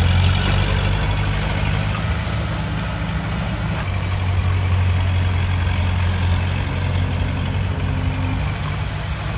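Heavy diesel earthmoving machinery running steadily, a low engine hum with no pauses.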